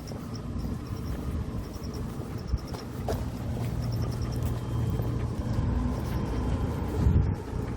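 A motor vehicle's engine hums low and steadily, growing louder through the middle and toward the end. Over it an insect chirps in short, repeated trains of high pulses.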